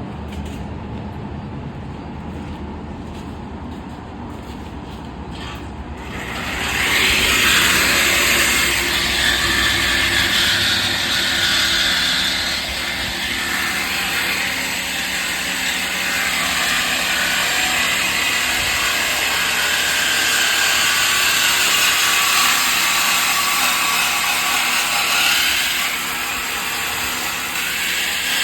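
A power tool runs steadily from about six seconds in, a loud hissing grind over a low steady hum that is there from the start.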